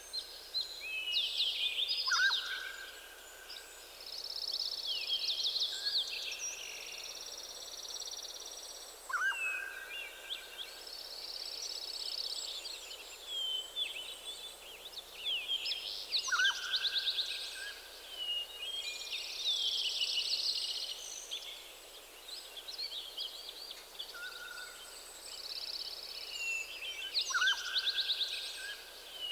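Several forest birds singing at once in a morning chorus: fast warbling and trilling phrases overlap almost without pause. A lower phrase, a quick downward sweep into a held note, comes back about every seven seconds.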